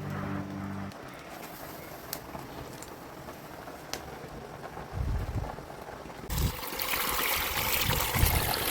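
Running water trickling steadily, with a few low bumps, turning to a louder rushing hiss a little after six seconds in.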